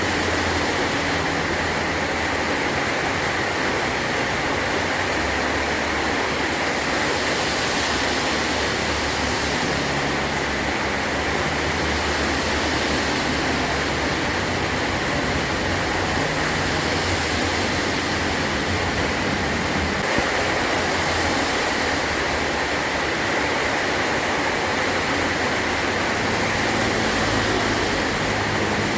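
Heavy rain falling steadily on a metal roof, an even hiss with a low, shifting rumble underneath.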